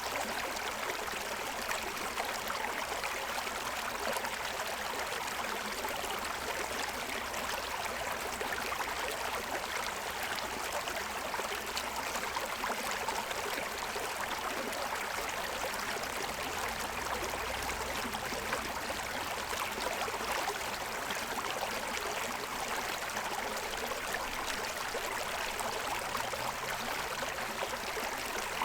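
Forest stream running over the stones of its bed, a steady rushing and babbling of water.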